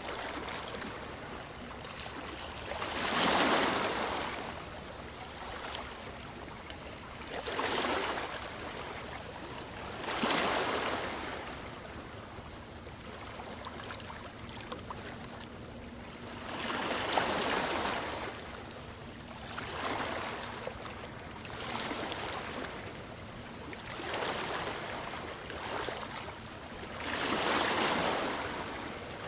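Ocean waves breaking, each a swelling wash of surf that rises and falls over a second or two, about eight in all a few seconds apart, with a soft hiss of water in between.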